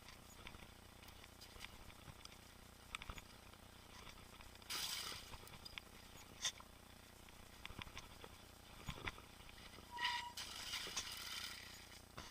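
Mountain bike riding a trail: scattered ticks and rattles from the bike, with two louder bursts of hiss about five and ten seconds in. The second burst opens with a short squeal.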